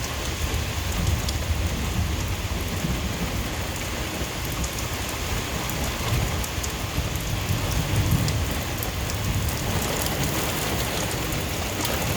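Heavy rain pouring steadily in a severe thunderstorm, with a low rumble underneath.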